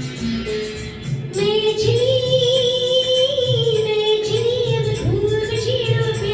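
Hindi film song with a woman singing a long, wordless, held vocal line with vibrato. It enters about a second and a half in, after a short instrumental bit, over a backing track with a steady drum beat and a shaker.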